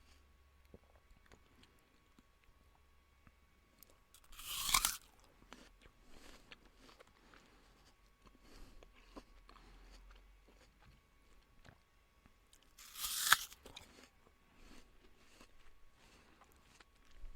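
Two loud crunching bites into crisp food, about eight seconds apart, with quieter chewing between them.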